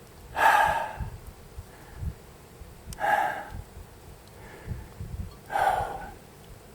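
A hiker breathing hard from the exertion of a steep climb: three loud, forceful exhalations about two and a half seconds apart, with faint low thuds of footing between them.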